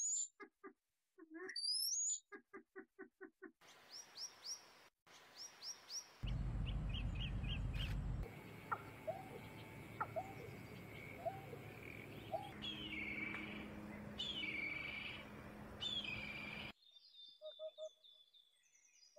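Birds chirping and calling: short rising chirps, rapid pulsing calls and quick repeated tweets, in segments that start and stop abruptly.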